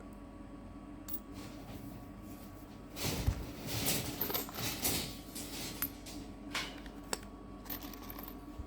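Handling noise: scraping and clattering for about two seconds with one sharper knock, then a few scattered light clicks, over a steady hum.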